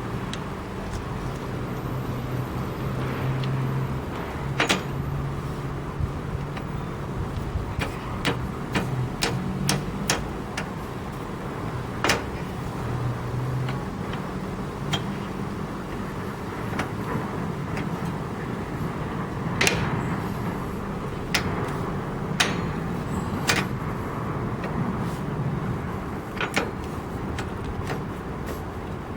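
Homemade tractor's engine running steadily, with frequent irregular clanks and knocks from its loose metal parts.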